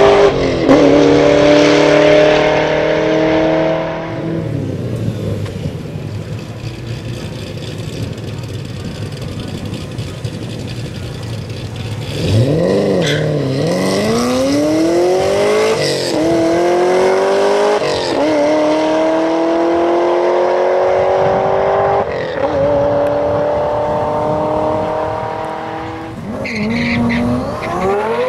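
Supercharged 2010 Camaro SS's 6.2-litre V8 on a drag run. A loud pass fades away about four seconds in. About twelve seconds in, the car launches hard, and its revs climb steeply and drop back at each upshift before the sound fades down the track.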